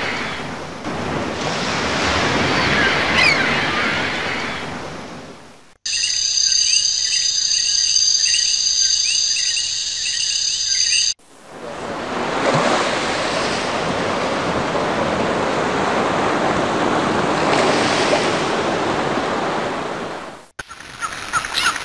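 A string of nature sound-effect clips joined by abrupt cuts. A rushing sound like surf is followed, about six seconds in, by a few seconds of steady high whistling tones with repeated chirps. The rushing sound then returns, and near the end it gives way to a clip of rapid ticks.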